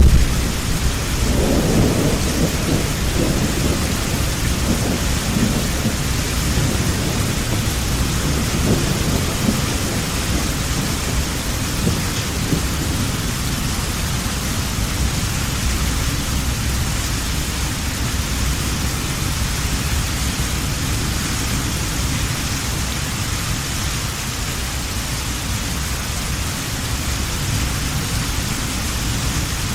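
Heavy rain falling steadily, with a long low roll of thunder through the first several seconds that slowly dies away.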